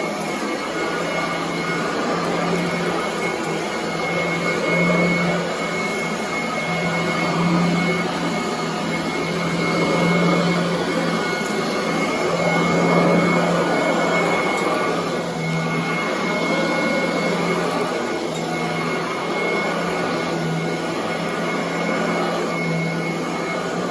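Commercial upright vacuum cleaner running over carpet, a steady motor hum with a thin high whine, swelling and easing every few seconds.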